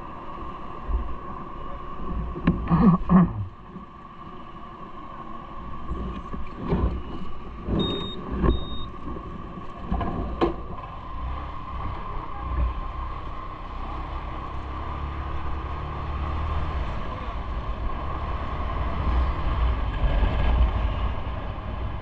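Steady vehicle ride noise, a low rumble with a constant hum, broken by several clunks or thumps in the first half. Two short high beeps sound close together about eight seconds in.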